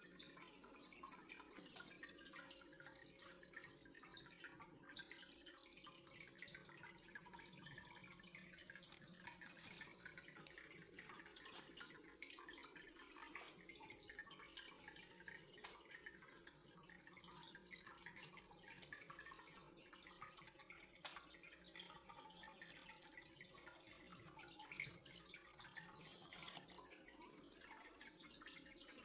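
Faint, steady trickling water with many small drips.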